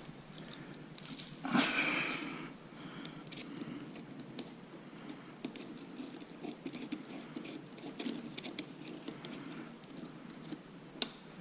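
Small metal clinks and light clicks of hand tools and bolts being handled while a motorcycle exhaust is fitted, scattered irregularly, with a louder scrape about a second and a half in.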